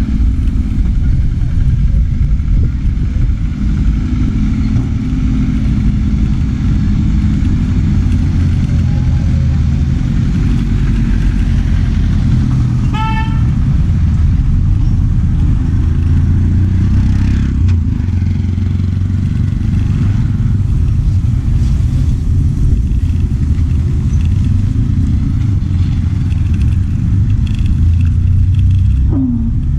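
Steady low rumble of road traffic and wind on the microphone while riding through town, with a short beep, like a vehicle horn, about 13 seconds in.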